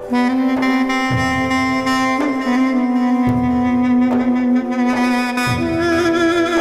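Duduk, the double-reed woodwind, holding one long low note in an improvisation. The note steps up slightly about two seconds in and moves to a higher note near the end, over a low accompaniment.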